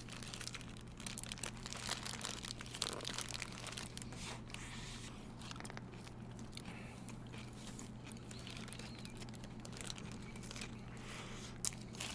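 Quiet chewing and biting of hamburgers, with the paper burger wrappers crinkling in the eaters' hands as scattered small crackles.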